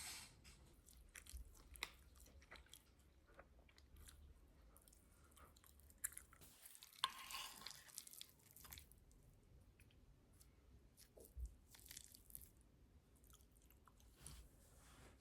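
Quiet, scattered small clicks and crisp rustles, with a longer rustle about seven seconds in.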